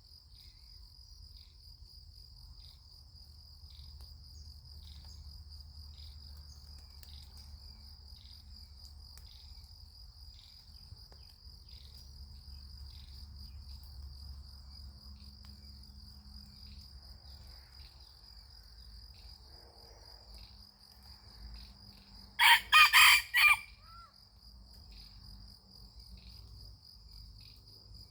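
A junglefowl rooster crows once, loud and about a second long, near the end. Under it a steady high insect trill runs throughout.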